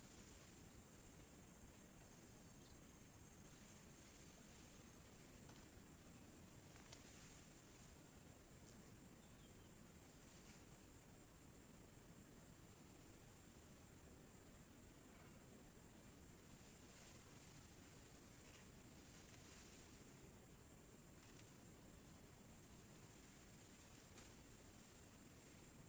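Steady chorus of insects, a continuous high-pitched shrilling that holds at an even level throughout.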